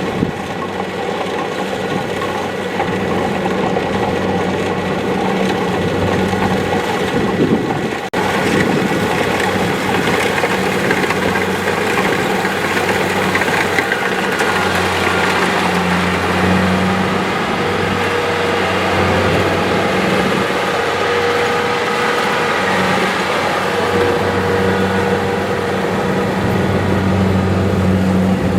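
Diesel engine of a Kubota DC-70 Plus combine harvester running steadily with a low hum, with a very short break about eight seconds in.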